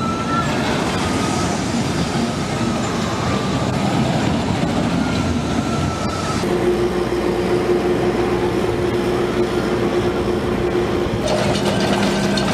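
Rail vehicles running on track: a noisy rumble for the first half, then a steady engine hum. About a second before the end, quick regular clicking comes in as the park's red replica steam locomotive passes.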